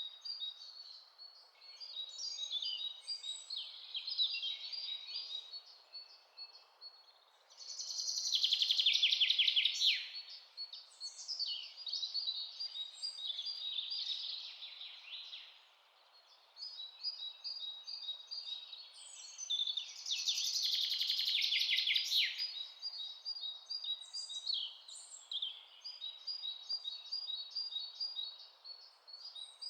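Several songbirds chirping and singing in a forest chorus, with a louder rapid trilling song about eight seconds in and again about twenty seconds in.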